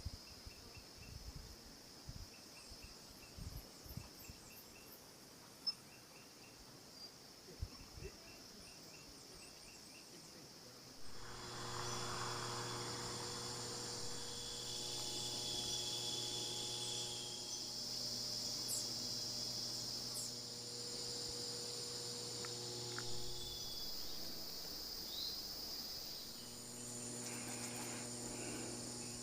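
Crickets and other insects chirping in short repeated pulses over a steady high insect drone. About eleven seconds in, a steady low hum joins and continues under them.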